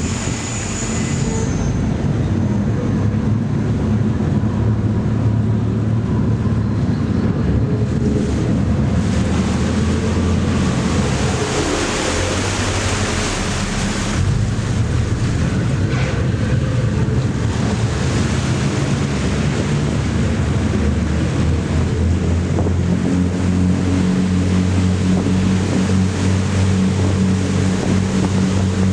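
Diesel engines of the MV Ali Cat passenger catamaran ferry running steadily under way, a low drone that firms up about three quarters of the way in, with rushing wind and water noise over it.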